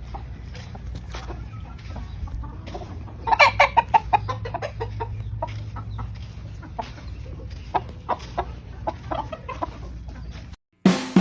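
Gamefowl chickens clucking in short, scattered calls, with a loud flurry of clucks about three seconds in, over a steady low hum.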